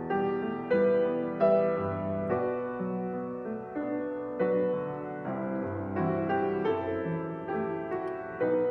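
Piano playing a steady, unhurried succession of chords, a new chord struck about every three-quarters of a second.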